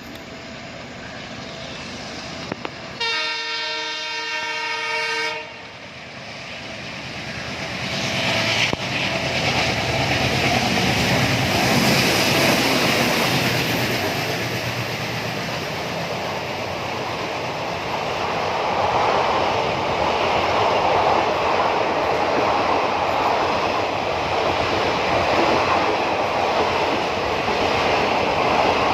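A locomotive horn sounds once for about two and a half seconds, several tones together. Then the Yashwantpur Express passes through the station without stopping: the noise of its wheels on the rails and its coaches rises and stays loud as the train goes by.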